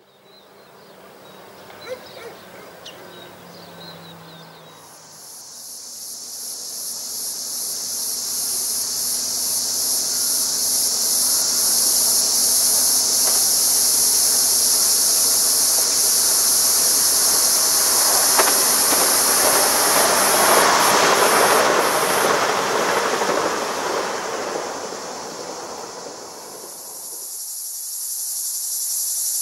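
Electric multiple unit passing at speed: its rolling wheel-on-rail noise swells, is loudest a little past the middle, then fades away. A loud, high, pulsing cicada chorus runs over it from about five seconds in and drops out briefly near the end.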